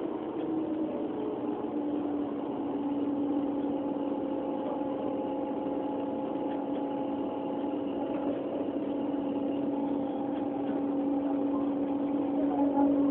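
Train running, heard from inside a passenger carriage: a steady hum with a few held tones.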